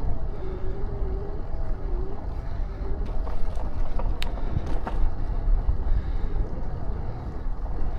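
Wind buffeting the microphone of a camera riding along on a bicycle, a steady low rumble mixed with tyre and road noise, with a few sharp clicks about four to five seconds in.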